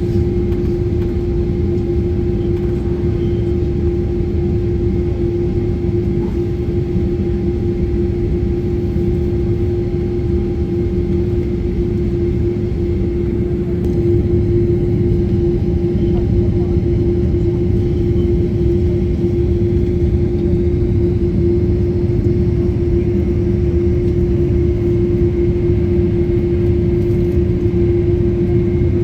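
Steady running noise of a vehicle: a low rumble with a constant mid-pitched hum over it, getting slightly louder about halfway through.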